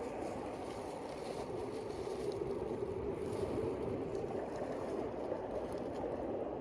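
Boat motor running steadily: an even, continuous low rumble, with a few faint ticks.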